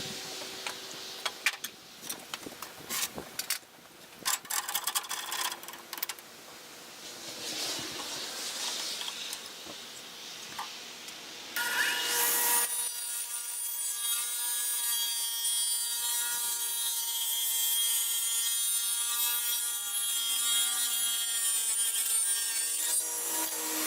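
A saw cutting through a reclaimed crate-wood board to trim it along a scribed line. Irregular scraping and knocks of the wood being handled come first, then a steadier, louder cutting sound from about halfway through.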